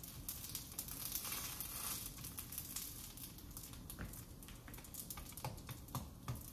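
Rice paper and egg wrap frying in oil in a nonstick pan, a faint sizzle with scattered crackles as the rice paper shell crisps. A few light clicks of a metal fork against the pan come in near the end.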